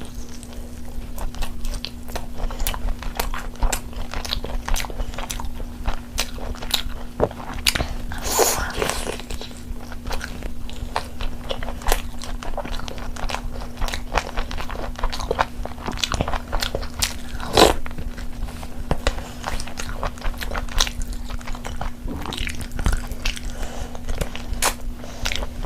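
Close-miked mouth sounds of a person eating: chewing, biting and crunching, with many quick wet smacks and clicks throughout. A faint steady hum runs underneath.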